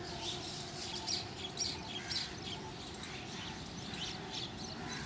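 Birds chirping, many short calls following one another, over a steady low outdoor background noise.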